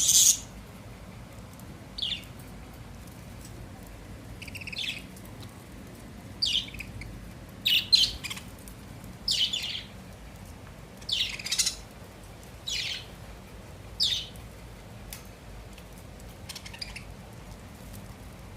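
Pet budgerigars calling: about ten short, high chirps and squawks, one every second or two, the loudest near the start and around the middle.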